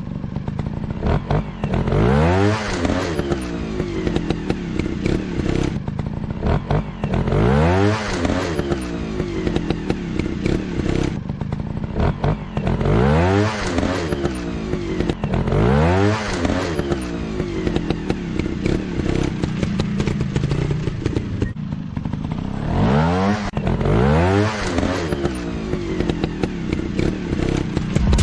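Dirt bike engine running at idle and revved about six times, each rev rising in pitch and dropping back to idle.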